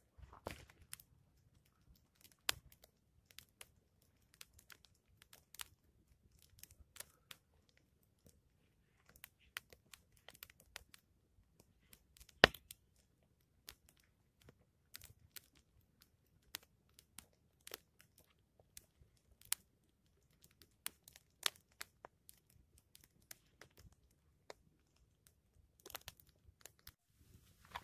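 Quiet, irregular small clicks and crackles, a few a second, with one louder sharp snap about twelve seconds in.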